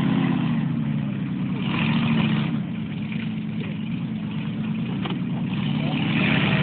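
Monster truck engine running and revving, its pitch wavering; it eases off a little in the middle and picks up again near the end.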